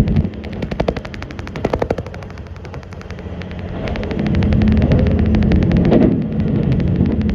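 Rapid, even rattling, many clicks a second, over a low steady hum from a diesel railcar. The hum swells about four to six seconds in.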